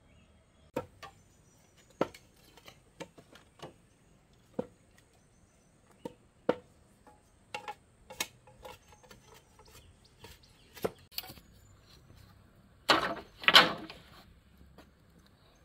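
Irregular sharp knocks of something striking wood, like chopping or hammering, roughly one a second, with a longer and louder rough clatter near the end.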